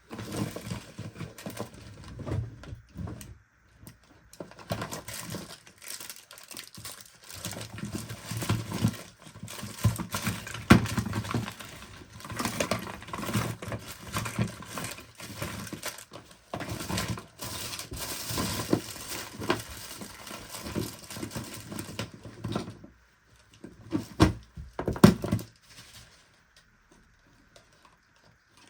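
Hands working on small parts: irregular clicking, tapping and rustling, with a few sharp knocks near the end.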